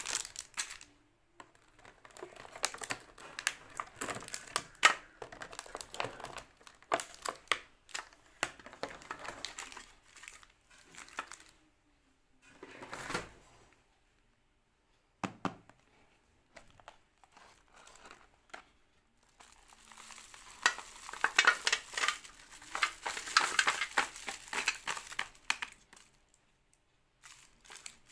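Plastic sweet and snack wrappers crinkling and tearing as packets are opened and handled. The sound comes in irregular bursts, goes nearly quiet for a moment midway, then turns to dense, continuous crinkling near the end.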